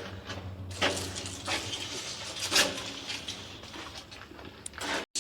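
Dry weeds and brush rustling and crackling as they are pushed aside and trampled, with irregular knocks and scrapes. The sound cuts out briefly just before the end.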